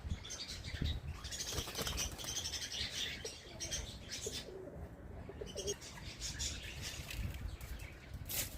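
Domestic pigeons flapping their wings in flight, with cooing and bird chirps among the wingbeats, over a low rumble.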